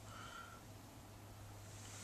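Near silence: room tone with a faint steady low hum, and a brief faint high tone a fraction of a second in.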